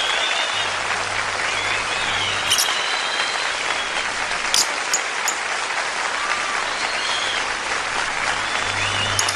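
A flock of lovebirds chattering: a dense wash of overlapping short chirps, with a sharp shrill squeak now and then. A low steady hum comes and goes underneath.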